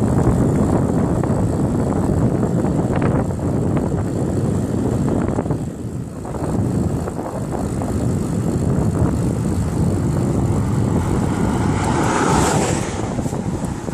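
Wind rumbling and buffeting on the microphone of a camera riding along on a moving bicycle, a loud, uneven rush that dips briefly about six seconds in.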